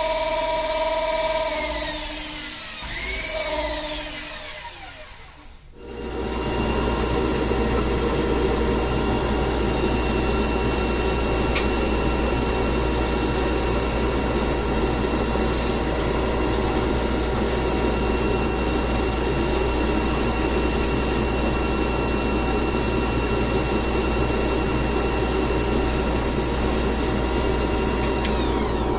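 Electric power-tool motor running, switched off and winding down in pitch to near stop about five seconds in, then started again and running steadily with a noisy whir.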